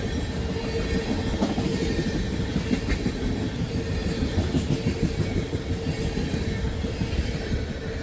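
Freight train of crude-oil tank cars rolling past close by, steel wheels clattering over the rail joints in rapid beats, with a faint steady whine held underneath.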